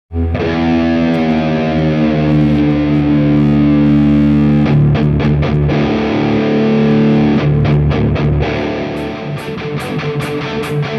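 Electric guitar played through distortion: heavy chords left ringing, changing about halfway through, then a quicker picked rhythm near the end.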